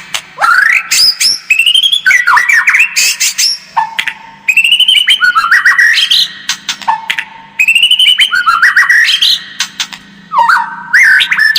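White-rumped shama (murai batu) singing loudly in a run of short phrases every two seconds or so, each a mix of rising and falling whistles. This is the kind of song used as a 'pancingan' to provoke a rival shama into fighting form.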